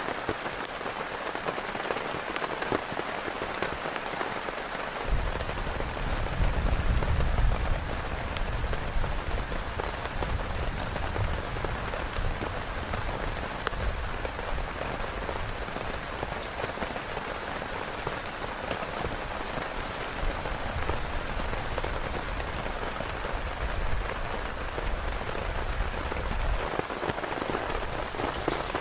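Heavy rain falling steadily. A low rumble comes in about five seconds in, is loudest a couple of seconds later, and dies away near the end.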